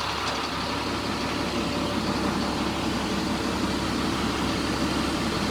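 2000 GMC C6500's 7.2-liter Caterpillar diesel idling steadily, heard inside the cab with the AC blower running on high.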